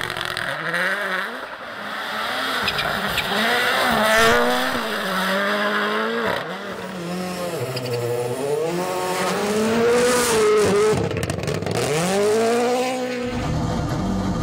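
Rally car engines revving hard, their pitch climbing and dropping again and again through gear changes and lifts. Near the end this switches abruptly to a steadier, lower engine note.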